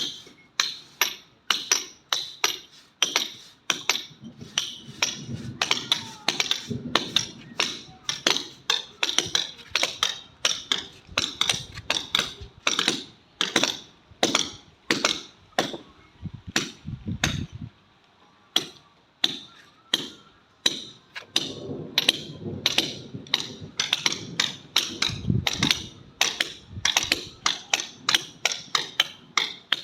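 Hammer blows struck over and over at a steady pace of about two a second, each sharp strike leaving a brief ring.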